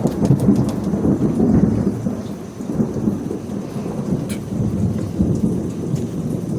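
A long roll of thunder that breaks suddenly just before and rumbles on loudly, slowly easing off, with rain falling.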